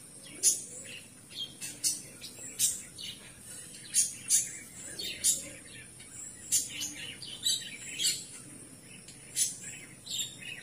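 Birds chirping: short, sharp, high-pitched calls repeated irregularly, about one or two a second.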